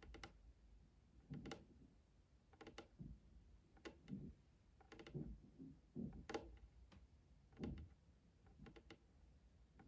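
Soft ASMR trigger sounds: clusters of light taps and clicks on an object, each with a dull low thud, coming irregularly about once a second.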